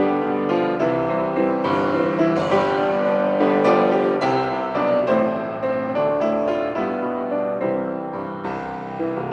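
Piano music: sustained chords and melody notes.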